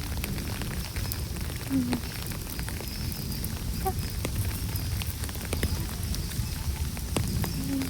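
Rain falling, with many scattered drop impacts ticking over a steady low rumble.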